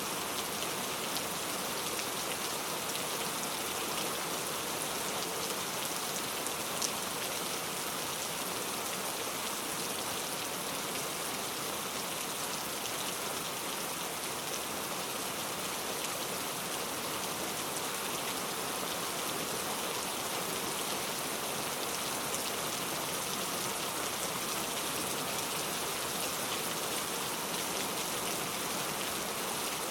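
Steady rainfall, an even hiss of drops with the odd louder drop standing out.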